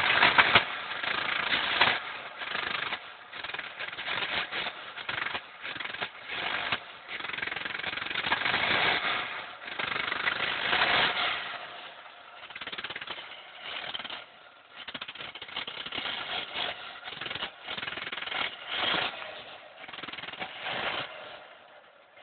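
Volvo 240's petrol engine running roughly on a cold start, stumbling and surging in uneven bursts as it misfires, dying down near the end. The owner suspects a damaged spark plug.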